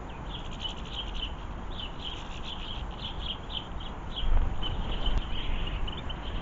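Small garden birds twittering in quick, repeated high chirps, over wind rumbling on the microphone, with a stronger gust about four seconds in.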